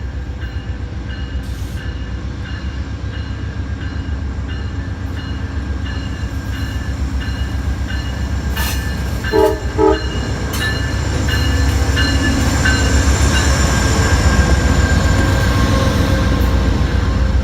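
Diesel passenger train locomotive running with its bell ringing steadily, sounding two short horn blasts about halfway through. The engine rumble then grows louder as the train works up.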